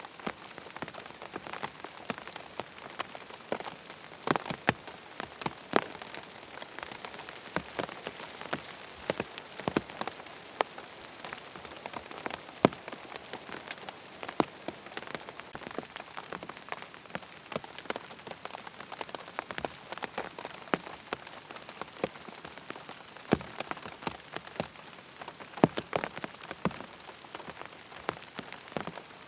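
Steady rain falling, an even hiss dotted with frequent sharp, irregular ticks of individual drops.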